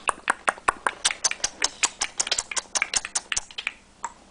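Rapid clicking made with the mouth, about six clicks a second, stopping about three and a half seconds in.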